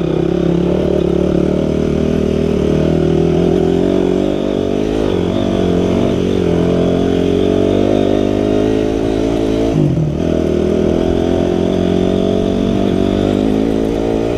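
Four-stroke single-cylinder dirt bike engine being ridden along a trail, its note rising and falling with the throttle. About ten seconds in the engine note drops briefly and picks up again, as on a gear change or a roll-off of the throttle.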